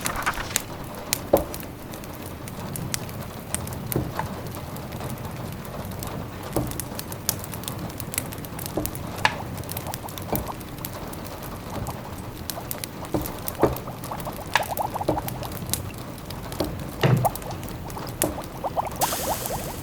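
Wood fire crackling and popping in a fireplace over a steady patter of rain, with short runs of bubbling from a simmering pot and a brief hiss near the end.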